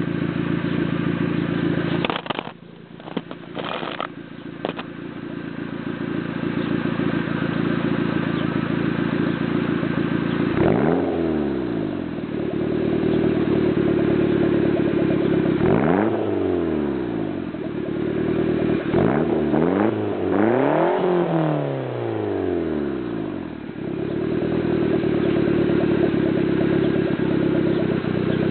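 Turbocharged Mazda Miata four-cylinder running through a catless 2.5-inch mandrel-bent downpipe and single exhaust: a steady idle, blipped so the revs rise and fall about four times, the last two close together, before settling back to idle. A few knocks early on.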